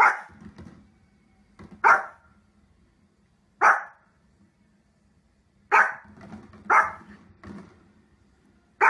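Small fluffy dog barking: six sharp, short barks spaced a second or two apart, with quieter sounds between some of them.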